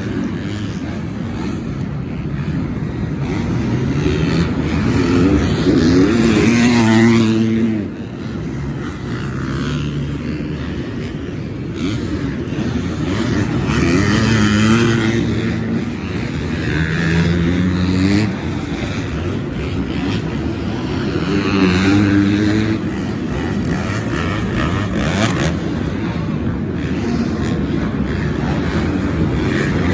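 Dirt-bike engines revving hard on a supercross track. The pitch climbs in steps through the gears and drops off again, in repeated surges with three loudest runs.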